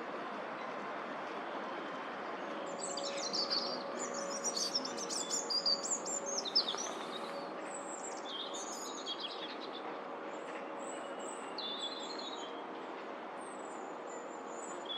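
Small birds chirping in a dense run of high calls for a few seconds, then more scattered calls, over a steady background hum.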